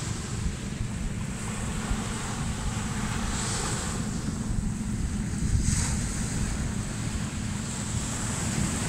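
Ocean waves washing onto a beach, with wind buffeting the microphone as a steady low rumble. Two waves surge louder, about three and a half seconds in and just under six seconds in.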